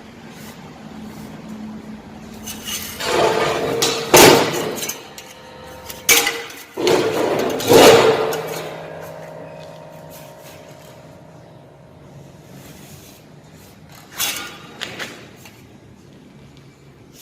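Steel pieces clanking and knocking together, with a metallic ring that dies away over a few seconds after the louder strikes. There are several strikes in the first half and a couple of lighter knocks near the end.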